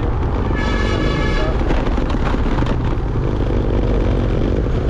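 Motorbike running at road speed with wind buffeting the microphone, a steady low rumble throughout. About half a second in, a horn sounds with a steady pitch for about a second.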